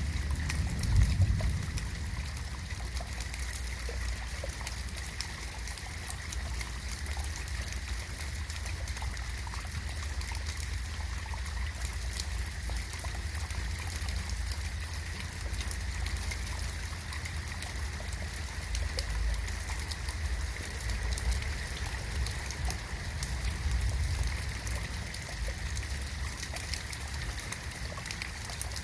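Steady rain falling: a constant hiss with many small ticks of drops, over a low rumble that swells briefly about a second in.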